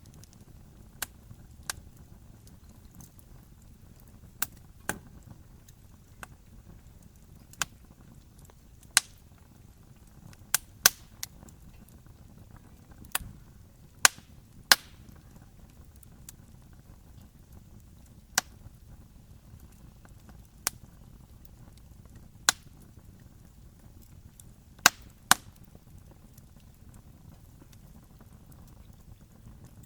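Wood campfire crackling: sharp pops at irregular intervals, a few much louder than the rest, over a low steady rush of burning.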